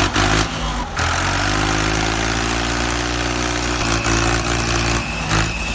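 Tractor engine running steadily with a low hum, with a brief break about a second in. A thin high tone joins near the end.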